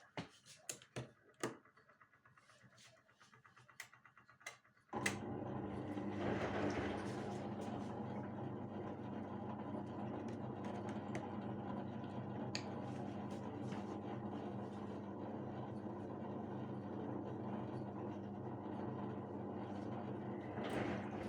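Washing machine: a few sharp clicks, then about five seconds in it starts running suddenly with a steady noise and hum, with an occasional click.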